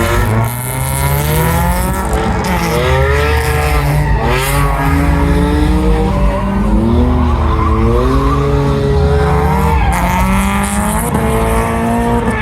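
Car engine revving hard, its pitch rising and falling over and over, with tires squealing and skidding, as in drifting or a burnout.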